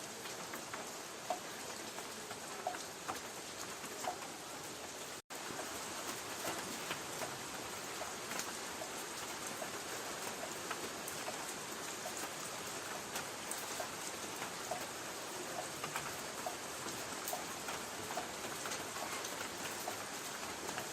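Light rain pattering on a tin roof: a steady hiss with many separate drops ticking on the metal. The sound cuts out for an instant about five seconds in.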